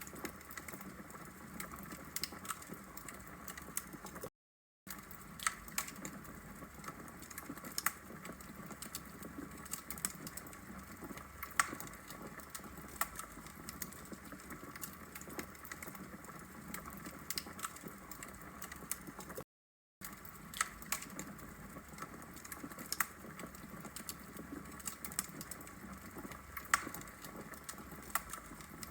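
Wood logs burning in a fireplace, crackling with irregular sharp pops and snaps over a steady soft hiss. The sound cuts out completely for about half a second twice, once early and once in the middle.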